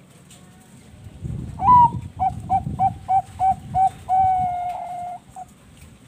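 Zebra dove (perkutut bangkok) singing: a rising opening note, then a run of about seven short clipped coos at roughly three a second, ending in one long drawn-out note and a final short coo. A low rumble sits under the first half of the song.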